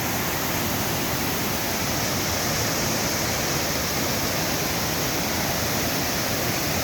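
Steady rushing of river water cascading over rocks, a constant full-range hiss.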